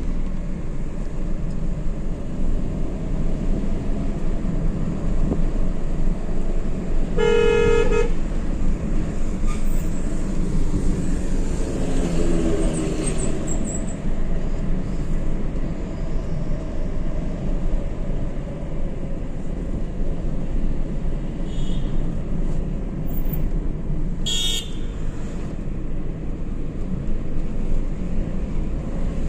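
Steady vehicle and road noise with a vehicle horn honking about seven seconds in, and another short horn blast near the end.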